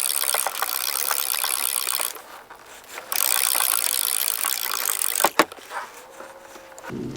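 Hand-cranked kayak downrigger, a 2-to-1 gear-ratio model, being wound up fast, its ratchet clicking in a rapid whir as the weight comes up from about 90 feet of depth. The cranking comes in two spells with a short pause about 2 s in, and stops a little past 5 s with a couple of sharp clicks.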